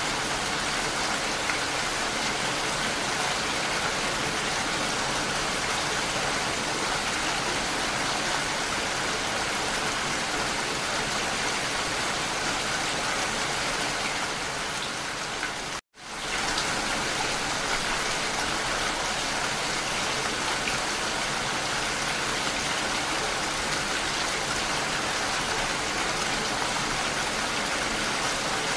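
Steady rainfall, a dense even patter. About halfway through it dips and cuts out for an instant, then resumes at the same level.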